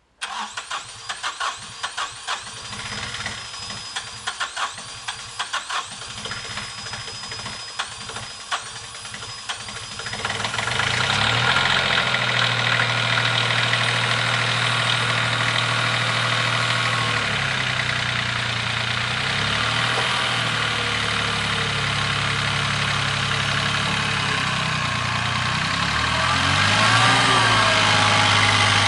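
Tractor engine being cranked by its starter in several short tries, then catching about ten seconds in and running steadily at idle.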